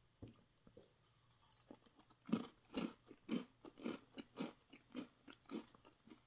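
Faint crunching of someone chewing two Cheez-It Hot & Spicy crackers. The crunches start about two seconds in, come about twice a second, and fade as the crackers are chewed down.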